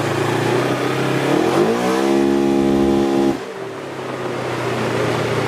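Polaris RZR side-by-side's engine idling, then revved: the pitch climbs over about half a second, holds high for about a second and a half, and drops off suddenly back to idle.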